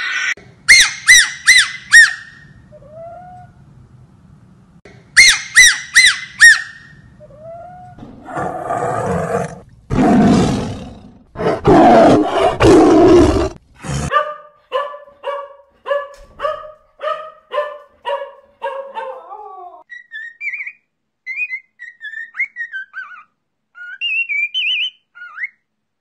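A string of different animal calls: quick runs of high chirping calls, then a loud rough call lasting several seconds, then a run of short calls repeated about twice a second, and faint high twittering near the end.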